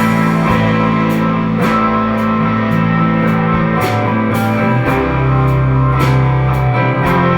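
A live indie rock band playing: electric guitars ringing out sustained chords over a bass line that moves every second or two, with drums and cymbals keeping time.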